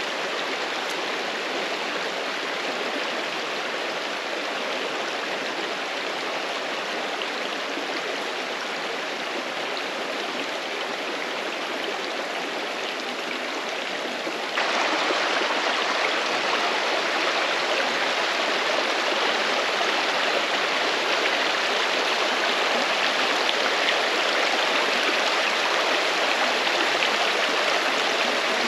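Snow-banked mountain creek flowing over rocks, a steady rush of water that turns abruptly louder about halfway through.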